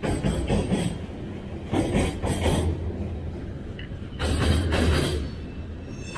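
Freight train of tank cars rolling past close by, its wheels rumbling and clattering on the rails, louder in surges about two seconds in and again around four seconds in.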